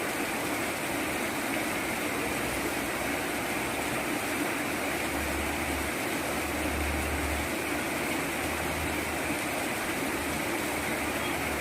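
Steady rain, an even hiss, with a low rumble that comes and goes underneath.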